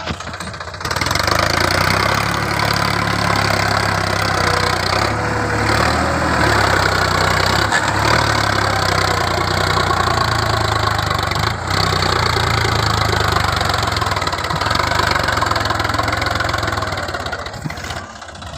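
Sonalika 47 DI RX tractor's diesel engine running hard as the tractor pulls through sand. It comes up to a loud steady drone about a second in and eases off near the end.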